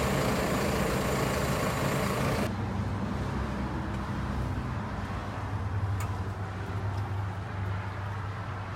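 Kubota M7-171 tractor's diesel engine running steadily. About two and a half seconds in, the higher-pitched noise cuts off abruptly, leaving a lower engine hum.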